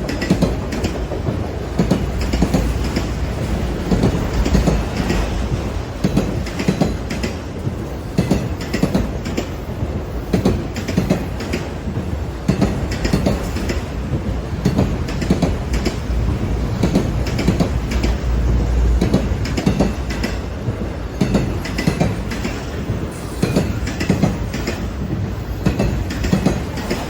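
Train rolling past, its wheels clicking steadily over rail joints over a continuous low rumble.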